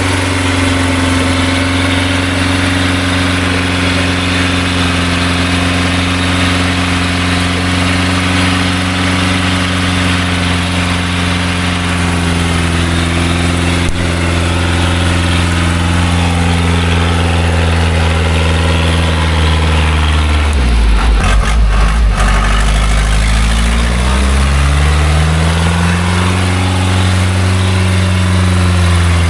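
Small logging truck's engine running hard and steady. About two-thirds of the way through its pitch sags and shudders low for a couple of seconds, then climbs back up.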